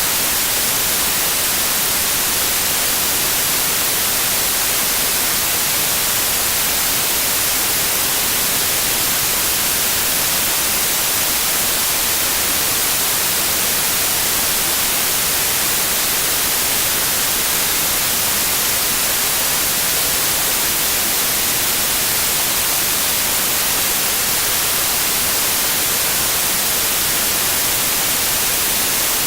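Steady, unbroken white noise: an even hiss, strongest in the treble, with no changes.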